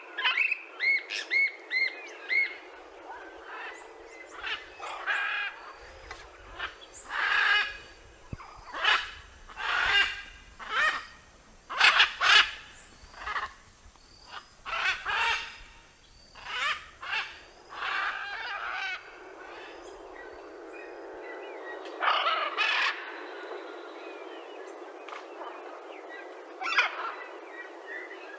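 Birds calling repeatedly in separate short, loud, pitched calls, thickest in the first two-thirds and sparser near the end, over a steady background hiss.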